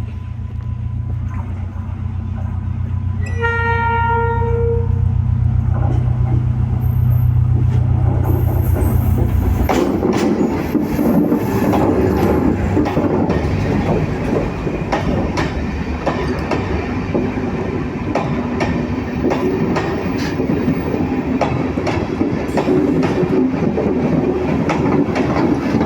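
Pulathisi Intercity Express diesel train arriving: a loud low engine rumble grows as it approaches, with one horn blast of under two seconds about three seconds in. The engine rumble cuts off about ten seconds in, and then the carriages' wheels clatter rhythmically over the rail joints as they roll past.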